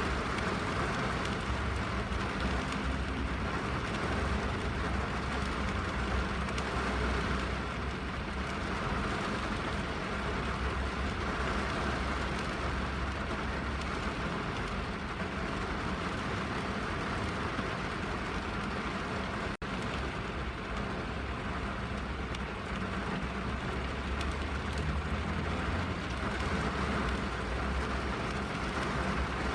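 Steady rain falling on a car's roof and windows, heard from inside the cabin, with a low rumble underneath. The sound cuts out for a split second about twenty seconds in.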